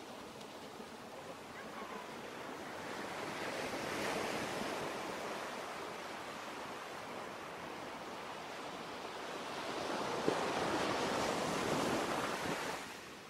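Ocean waves washing in, two slow swells of surf, the second louder, cutting off suddenly near the end.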